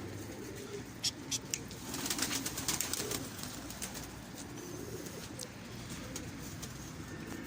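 Domestic pigeons cooing, with a few sharp claps about a second in and a run of rapid flapping or clapping around two to three seconds in.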